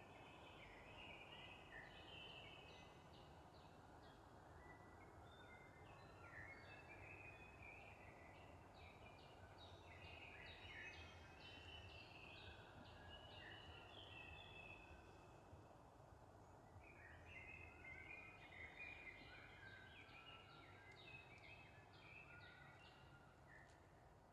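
Faint birdsong: several birds chirping and trilling in quick runs, with a brief lull about two-thirds of the way through, over a steady low background rumble.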